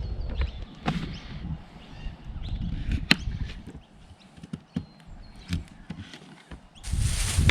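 Scattered clicks and knocks of vegetables being cut and handled, with one sharp click about three seconds in. Wind rumbles on the microphone at the start and again near the end.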